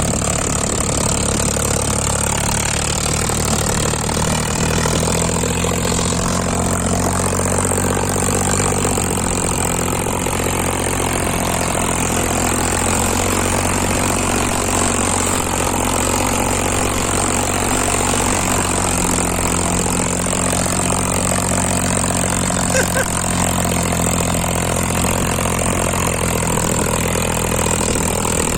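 Farmtrac 60 tractor's diesel engine running steadily under load, hauling two loaded trolleys.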